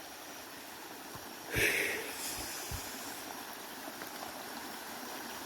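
Small stream of water running steadily along a dirt path. About a second and a half in there is a brief louder rush with a few low thumps.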